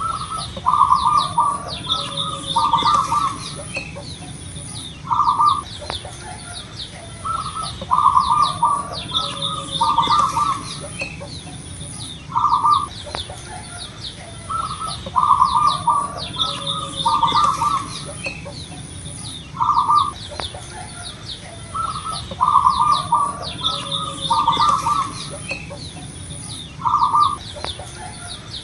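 Zebra dove (perkutut) cooing its song, a group of short, clipped coos recurring about every seven seconds. Small birds chirp behind it, over a faint, high, pulsing whine.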